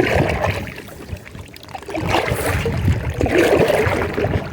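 Kayak paddle strokes: the blades dip and splash in the lake water in repeated swells, over a low rumble of wind on the microphone.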